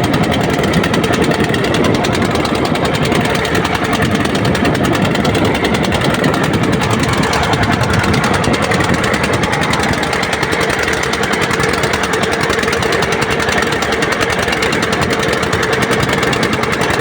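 Boat engine running steadily at speed, a loud, rapid, even chugging.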